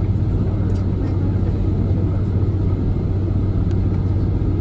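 Boeing 747-400 airliner cabin noise heard from inside the economy cabin: a steady low rumble with a constant hum, with a couple of faint ticks.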